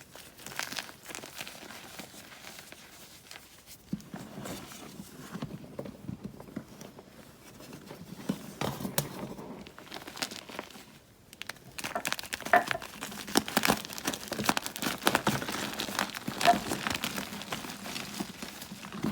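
Blocks of gym chalk being crushed and crumbled by hand, a dense crunchy crackle of many small breaks and powder rubbing. It eases off briefly a little past the middle, then grows louder and busier from about two-thirds of the way in.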